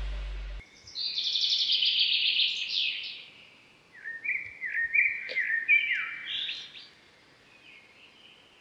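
Birds chirping and singing: a dense run of high chirps, then a string of short notes stepping up and down, fading out near the end. Before that, the tail of electronic dance music cuts off just after the start.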